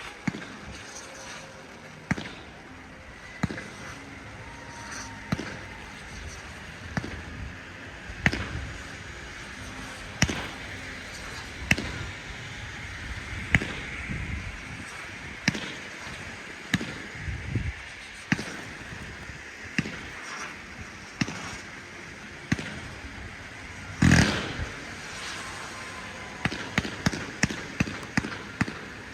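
Low-noise display fireworks going off: sharp, soft pops about every second and a half, with one bigger burst about three quarters of the way through and a quick rattle of pops near the end.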